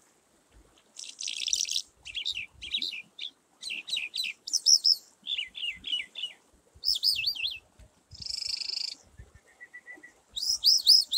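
Small birds chirping from about a second in: quick runs of short, high arched chirps broken by two longer harsh, buzzy calls.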